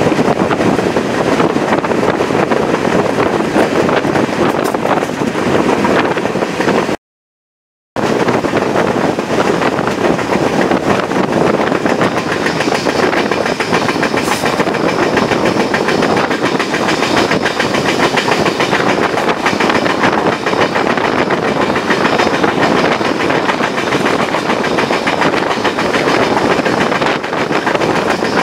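Chepe passenger train running at speed, heard from a coach window: the steady rumble and clatter of wheels on the rails. The sound cuts out completely for about a second around seven seconds in.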